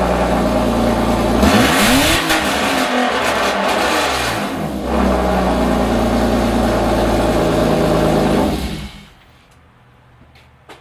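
BMW E34 525i straight-six running very loud with no exhaust system fitted, blipped up and back down about a second and a half in and again around four seconds. It cuts off near the end.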